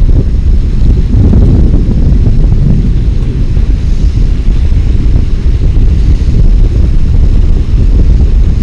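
Strong wind buffeting a phone's microphone: a loud, unbroken low rumble with no breaks.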